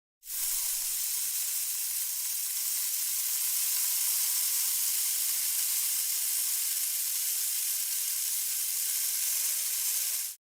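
Steady hiss, strongest in the high register, that starts suddenly and cuts off suddenly near the end.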